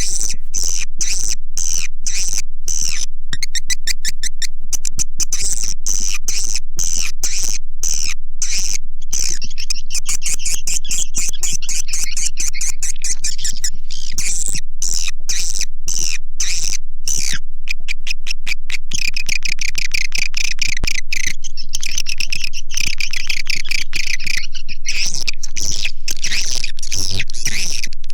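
Swiftlet calls: a dense, unbroken stream of rapid clicking chirps and buzzy, wavering twitters, the recorded call sound played to lure swiftlets into a nesting house.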